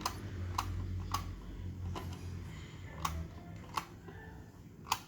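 Six sharp clicks at uneven intervals, three in the first second and a half, then three more further apart, from a small plastic toy being worked by hand.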